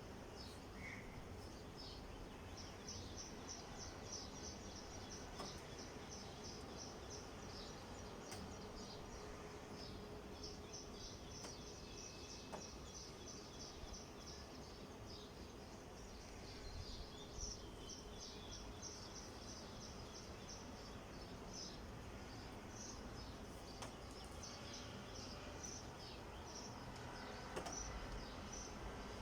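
Faint steady background hiss with repeated runs of quick, high-pitched chirps, several a second, coming and going throughout.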